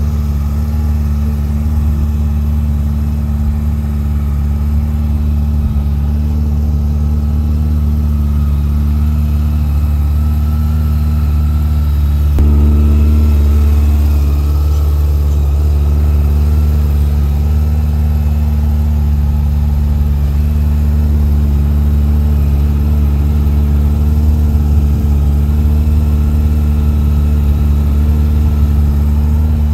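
Honda CB400SF's inline-four engine idling steadily, growing a little louder about twelve seconds in.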